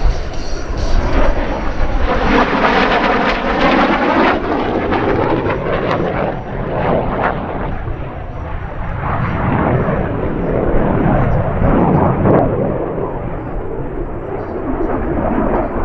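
MiG-17 jet fighter's turbojet making a loud low flyby. The noise is continuous, with a sweeping, shifting tone for a few seconds early on as the jet passes, then a long rushing rumble.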